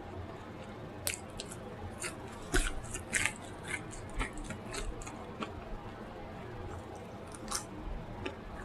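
Close-miked eating: chewing and wet mouth smacks. A quick run of sharp clicks comes in the first few seconds, then slower chewing with a single smack near the end.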